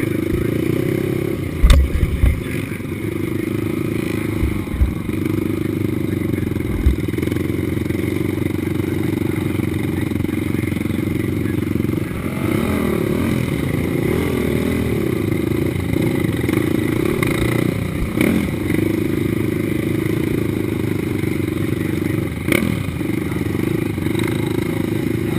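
Racing ATV engine running hard at high revs, close to the onboard camera, its pitch rising and falling between about twelve and fifteen seconds in as the throttle changes. A few loud low thumps come about two seconds in, with scattered clatter.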